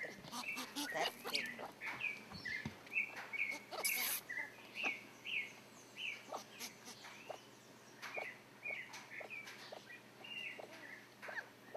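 A series of short, high chirps, roughly two a second, each bending up or down in pitch, with scattered sharp clicks between them.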